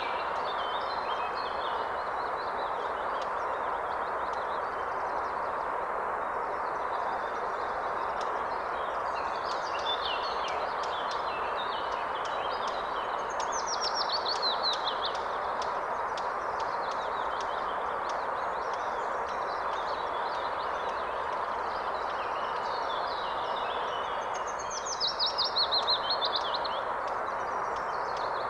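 A river or stream rushing steadily, with songbirds singing over it. Twice, about halfway in and near the end, a louder song runs down in a quick falling series of notes.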